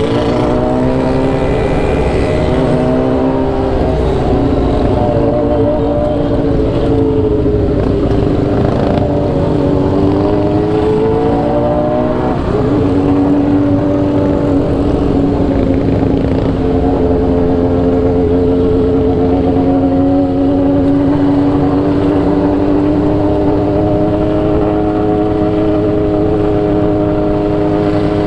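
Motorcycle engine heard from the bike while riding, with wind rumble on the microphone. Its pitch rises and falls with throttle and gear changes through the first half, then holds a steady note that climbs slowly as it cruises.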